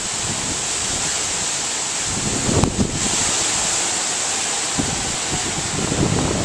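Hurricane wind and rain making a loud, steady hiss, with gusts rumbling on the microphone about two and a half seconds in and again near the end, and one brief click among them.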